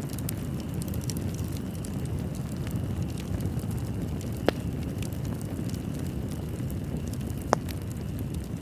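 Wood fire burning in a fireplace: a steady low rumble of flames with a scatter of small crackles, and two sharper pops, one about halfway through and one near the end.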